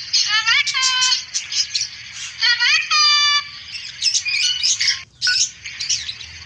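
A cockatoo calls twice, each a loud cry that rises and then holds, about two seconds apart. High chirping of small birds runs underneath.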